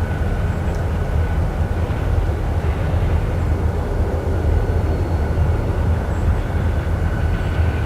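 Diesel freight locomotives running steadily: a low rumble with a faint, steady high whine above it.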